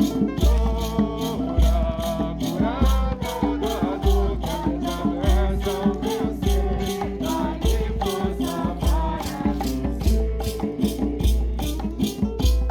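A hymn performed with maracas shaken in a steady beat of about three strokes a second, over singing and instruments with a recurring deep bass note.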